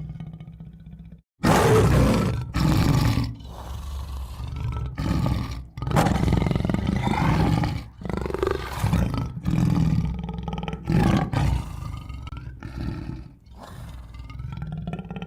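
Tiger roaring and growling in a string of calls. The first and loudest roar comes suddenly after a brief silence about a second and a half in, and the calls grow weaker near the end.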